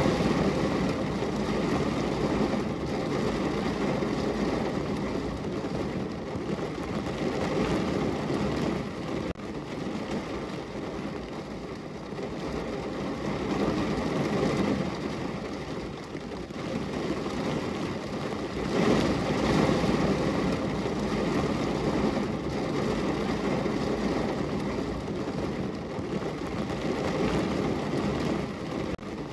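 Steady rain on a window pane: a continuous dense wash with a low rumble under it, swelling louder a few times.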